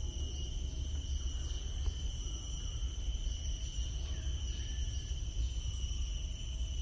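Steady, high-pitched droning of insects in a natural outdoor soundscape, with a few faint short calls, over a low rumble.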